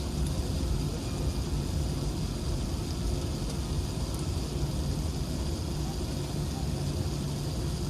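Steady cabin noise inside an Airbus A380-861 on the ground before takeoff: its Engine Alliance GP7200 engines running at low power, a constant low hum with air-conditioning hiss.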